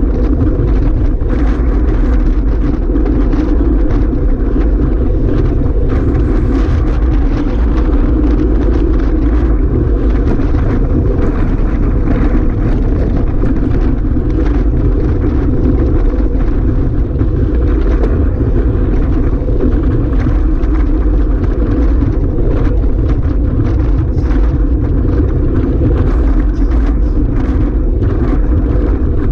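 Loud, steady rush of wind on the microphone over the continuous drone of a moving vehicle.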